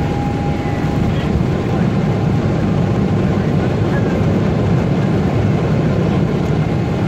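Steady noise of a passenger airliner's engines and rushing air, heard inside the cabin during takeoff.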